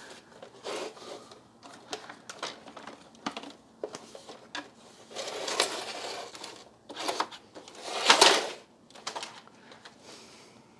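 Plastic parts of a Dyson DC33 vacuum cleaner being handled and cleaned by hand: irregular clicks and knocks with a few longer scuffing sounds, the loudest about eight seconds in.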